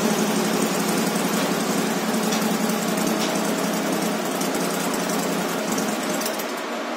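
Harley-Davidson Road Glide (FLTRX) V-twin engine idling on a chassis dynamometer, with a steady fast pulsing, mixed with the rush of a shop cooling fan. Near the end the engine sound drops away and the fan is left.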